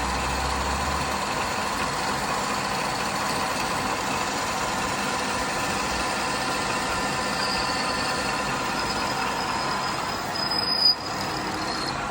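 A shop machine tool running steadily with an even whine. There is one brief sharp sound with a short high tone near the end.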